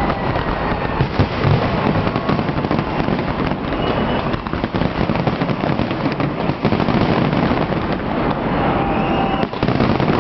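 Fireworks display at full intensity: a dense, unbroken barrage of bangs and crackling, with a few faint whistles over it.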